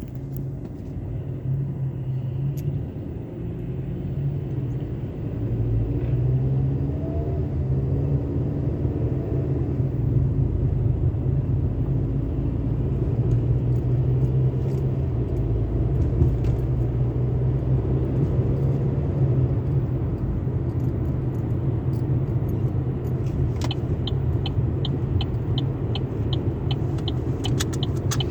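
Steady low mechanical rumble of a car wash tunnel with a car running in it, with a run of even ticks about three or four a second near the end.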